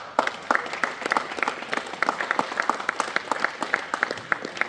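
A small crowd applauding: many separate hand claps, fading out near the end.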